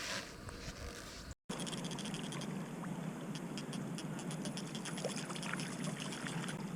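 Boat motor running steadily at trolling speed, a low hum under water noise and small splashy clicks. The sound drops out for a moment about a second and a half in, then resumes.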